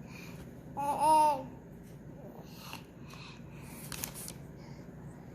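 A young child's short wordless vocal sound, high and wavering, about a second in. Faint clicks and rustling follow, with one sharper click near the middle.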